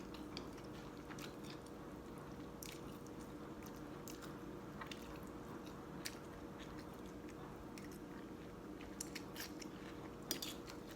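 A person quietly chewing and eating Thai boat noodle soup, with scattered short clicks over a steady faint hum.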